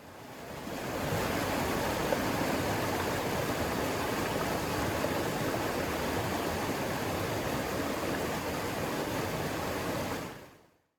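River water rushing in a steady, even flow. It fades in over the first second and fades out near the end.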